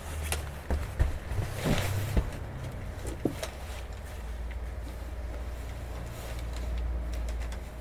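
Isuzu Erga city bus's inline-six diesel heard from inside the cabin while driving: a steady low engine drone, with a few sharp knocks and rattles in the first three seconds or so and the engine note growing louder near the end.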